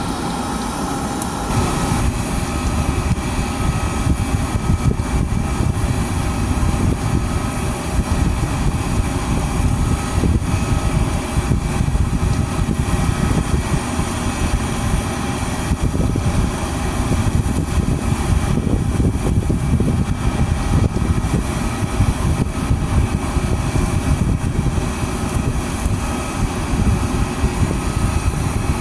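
Jet aircraft engines running steadily: a thin, high, constant whine over loud, fluttering low noise.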